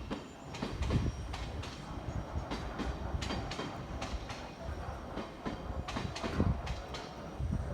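A train running through the station, its wheels clattering over rail joints and points in a run of irregular clacks over a steady rumble.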